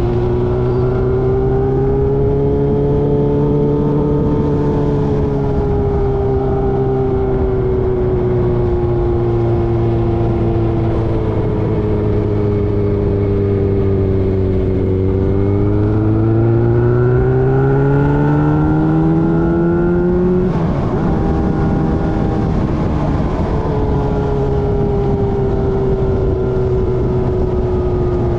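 Motorcycle engine running under way, its pitch falling and rising with the throttle. About two-thirds of the way through it climbs steadily, then drops suddenly at a gear change, under constant road and wind noise.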